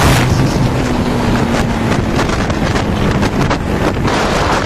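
Motorcycle engine running at speed during an acceleration run, its note half-buried under heavy wind rushing over the microphone.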